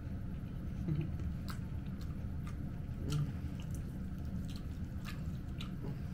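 A person chewing food close to the microphone, with scattered short wet mouth clicks and smacks, over a steady low hum.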